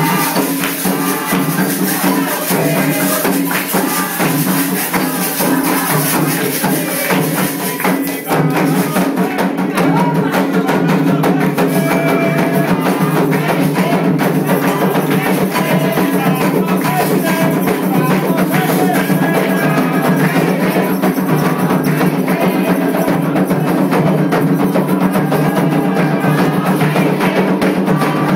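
Candomblé ritual music: drums and percussion playing a fast, dense rhythm with voices singing over it. There is a brief dip about eight seconds in, and the music is slightly louder after it.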